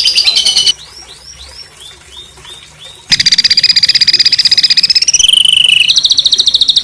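Songbird singing rough, rapid-fire 'tembakan' phrases. A fast trill of quickly repeated high notes breaks off for a run of softer, short down-slurred chirps. Then a very loud fast trill starts, which drops in pitch twice near the end.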